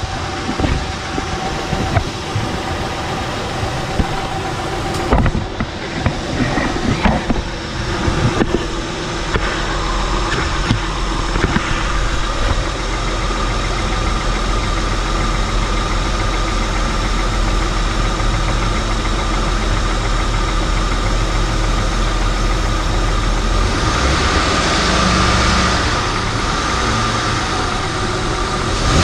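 Honda Pilot's V6 engine running steadily at idle, with scattered knocks and clicks over the first several seconds.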